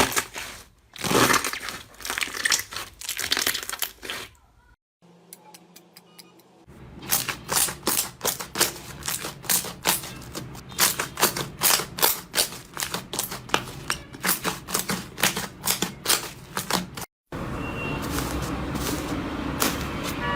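Slime being squeezed and worked by hand, crackling and giving off quick runs of clicking pops from trapped air, in several short clips that cut off abruptly.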